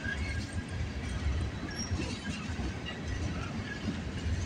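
Tank cars of a slow-moving CN freight train rolling past on the rails: a steady low rumble of wheels, with a few faint short squeaks. The train is slowing to switch tracks.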